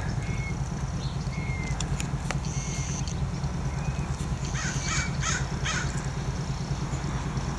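Garden birds calling: scattered short high chirps, and three harsh calls in quick succession about five seconds in, over a steady low hum.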